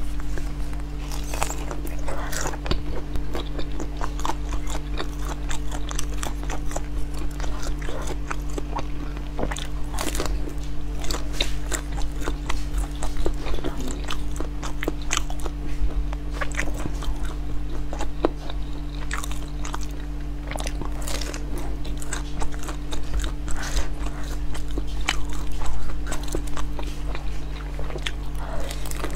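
Close-miked biting and chewing of sauce-glazed grilled sausages: many short, sharp mouth clicks over a steady low hum.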